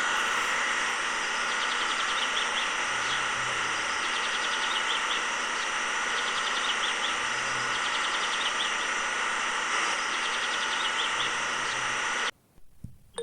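A small motor running steadily with an even whine, bird chirps scattered over it; it cuts off abruptly near the end.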